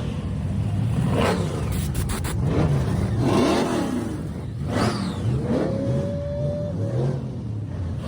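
Blower-supercharged pro street car engine idling roughly and blipped several times, each rev rising and falling back to idle.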